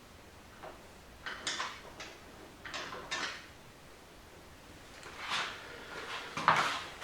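Short scraping and sliding sounds of transmission parts being handled and moved, four or five brief strokes with pauses between, the loudest near the end.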